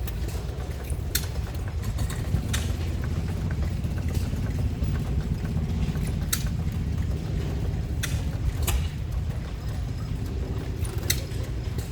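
Small stationary engines running: a steady low rumble with single sharp pops at uneven gaps of one and a half to four seconds.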